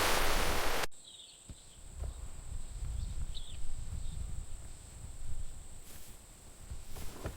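Loud rushing noise that cuts off abruptly about a second in, giving way to rainforest ambience: a steady high insect whine with a few short bird chirps and a low background rumble.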